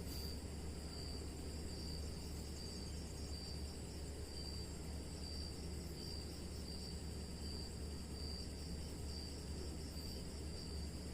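Night insects, cricket-like, calling with a steady high pulsed chirp that repeats evenly throughout, over a constant background hiss and low hum.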